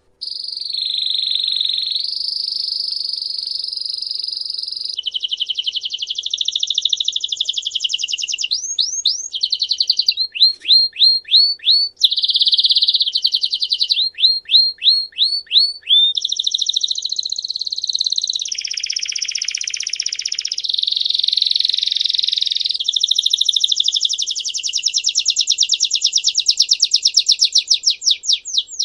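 A songbird singing one long, unbroken song of rapid high trills and rolls, changing to a new trill pattern every second or two, with runs of quick rising chirps around the middle. It is a song recording of the kind played to cage birds to teach them to sing.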